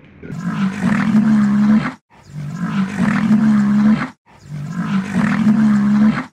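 A deep, held animal call, the same call played three times over. Each call lasts about two seconds, with a short dead gap between them.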